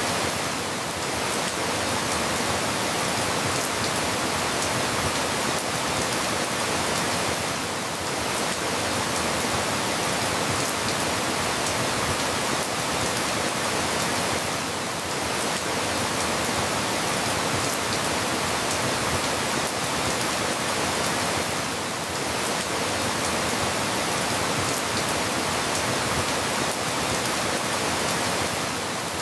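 Steady rain falling, an even hiss with slight dips in level about every seven seconds.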